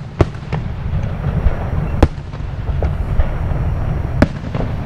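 Aerial firework shells bursting: a string of about five sharp bangs, the loudest about two seconds in and another near the end, over a steady low rumble.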